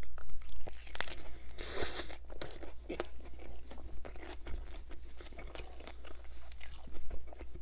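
A person chewing a mouthful of burger close to the microphone: a run of small crunching, crackling clicks.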